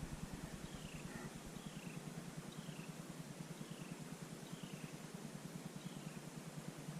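Wind buffeting the microphone in a low, fluttering rumble, while a songbird repeats a short, falling high call about once a second.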